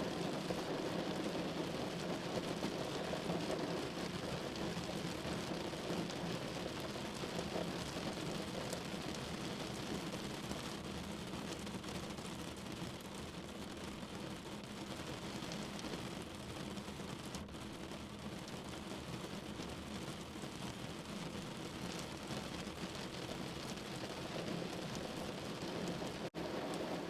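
Steady rain falling on a window, an even patter, with a momentary dropout near the end.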